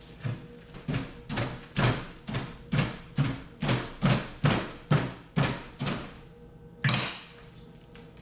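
A series of about a dozen heavy knocks, roughly two a second for six seconds, then one more about a second later.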